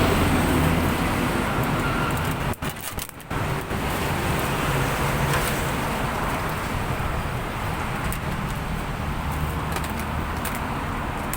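A motor vehicle engine running, with road traffic noise. The sound cuts out briefly about two and a half seconds in.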